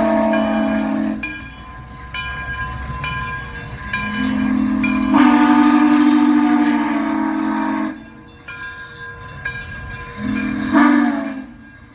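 Steam locomotive whistle blowing a chord: the end of one blast, then a long blast of about four seconds, then a short blast. Between the blasts are fainter repeated metallic strikes.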